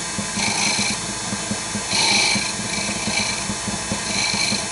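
Wood lathe running with a steady, pulsing hum while a turning tool takes several short finishing cuts on the spinning wood, each a brief hissing scrape.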